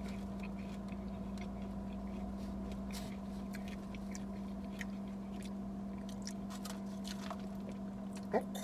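Faint chewing of salad with a few light clicks, over a steady low hum inside a car.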